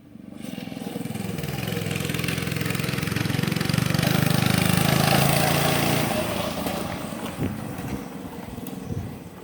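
Dirt bike engine revving as the bike rides closer, loudest about five seconds in, then fading as it moves away.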